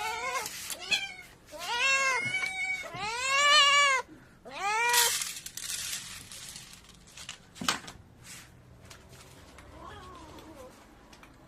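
Kitten meowing: about five high meows in the first five seconds, each rising then falling in pitch, the longest about a second. A single sharp click follows a couple of seconds later.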